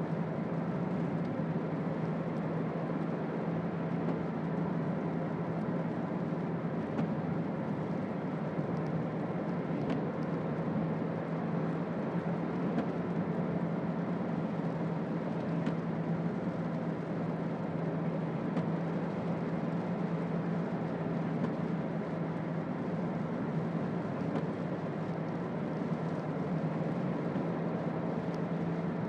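Toyota Auris 1.4 D-4D four-cylinder turbodiesel car driving at a steady pace, a constant low hum with even road noise that doesn't rise or fall.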